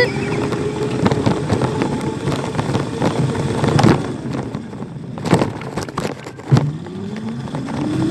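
A small dirt bike's motor whines as it rides, its pitch easing slowly down. About six and a half seconds in it dips sharply, then rises again as the bike speeds back up. A few sharp knocks sound along the way.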